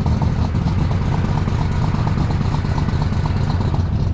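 Superstock pulling tractor's engine running hard under load as it drags the weight sled down the track, a loud, steady engine sound.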